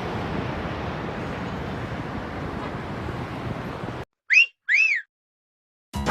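Steady rushing jet noise of an airliner on approach, cut off abruptly about four seconds in. Then two short whistled notes, each rising and then falling, over dead silence: an edited-in whistle sound effect.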